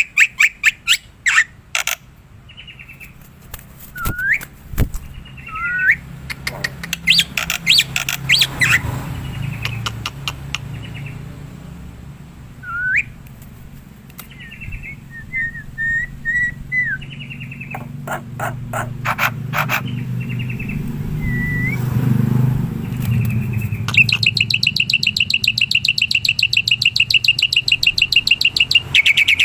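Black-winged myna (jalak putih) calling: quick series of sharp clicking notes and short rising whistles, then, about two-thirds of the way in, a fast steady run of rapidly repeated notes.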